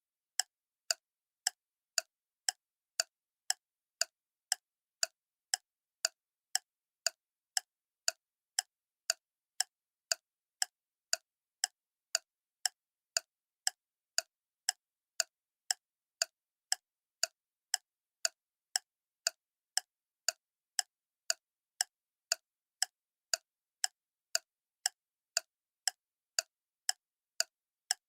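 Clock ticking evenly, about two sharp ticks a second with silence between them.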